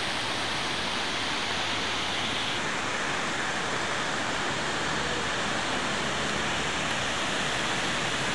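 Waterfall rushing: a steady, even roar of falling water with no breaks, starting suddenly at a cut.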